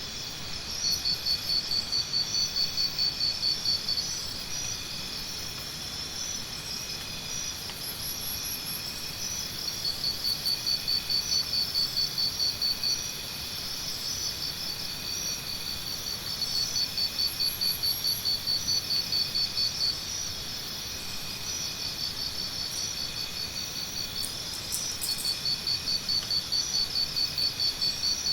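Jungle morning ambience: a steady chorus of insects in several high, even bands. A louder pulsing trill comes in four bouts of about three seconds each, with a few brief, very high chirps between them.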